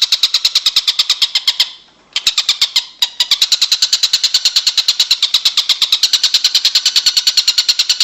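A songbird's rapid chattering trill, sharp notes repeated about ten times a second, broken by a brief pause about two seconds in and resuming.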